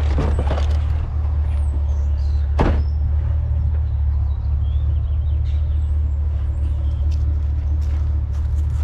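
Truck engine running steadily, a continuous low rumble, with one sharp knock about two and a half seconds in.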